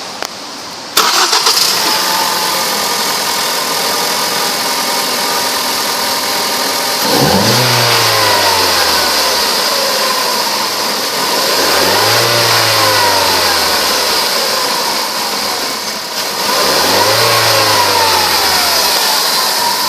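2012 Ford Focus four-cylinder engine starting up about a second in and settling to a steady idle, then revved three times, each rev rising and falling back to idle over a couple of seconds.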